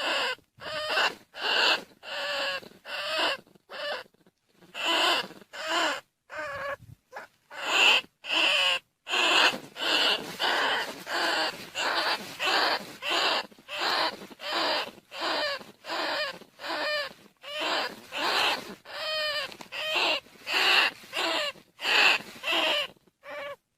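Recorded squeaking calls of field rats and bandicoot rats, used as a decoy call to lure rats. Short, high squeals repeat about twice a second, some with a fast warble, pausing briefly about 4 s and 7 s in.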